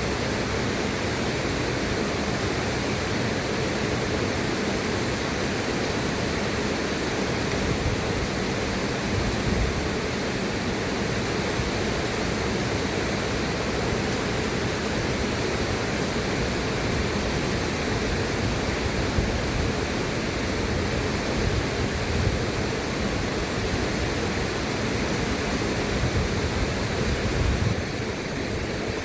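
River water rushing steadily, a dense even roar of flowing water with no breaks.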